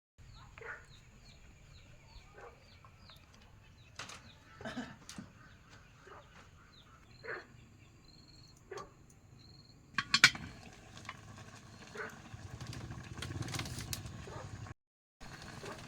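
Repeated short, high, falling chirps of small birds or chicks, with scattered knocks. About ten seconds in comes a sharp clatter, followed by rustling and handling noise.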